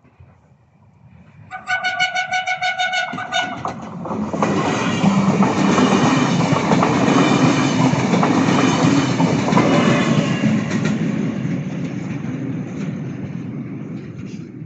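A train sounds its horn for about two seconds, then passes close by with a loud rush of wheel and rail noise that fades towards the end.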